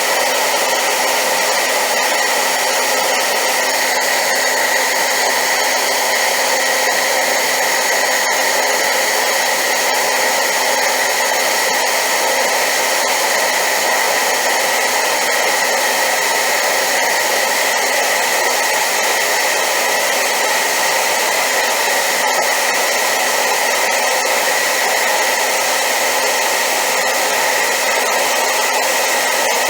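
Hair dryer running steadily on high power: a loud, unchanging rush of air with a steady high whine and a faint low hum.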